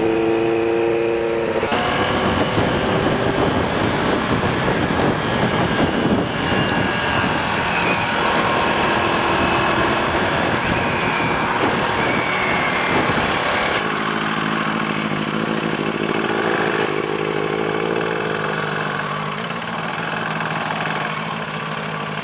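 Sport motorcycle engine running while being ridden, with heavy wind rush on the microphone. The engine note holds steady for the first second or two and is then mostly buried under wind noise; from about two-thirds of the way through, it settles into a steadier, lower note.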